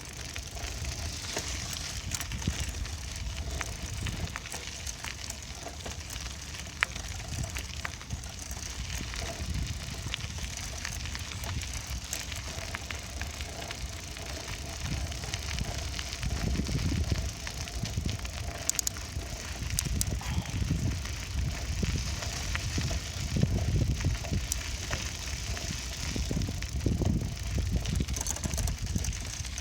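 Bicycle on the move: tyres rolling over a rough surface with small clicks and rattles from the bike. From about halfway, louder low rumbling surges come and go, like wind buffeting the microphone.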